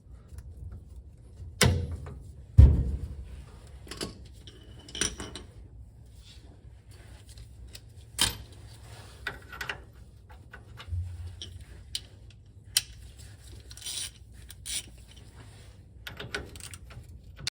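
Scattered metallic clinks and knocks of hand tools and parts being handled during front-suspension work, spaced irregularly, the loudest knock about two and a half seconds in.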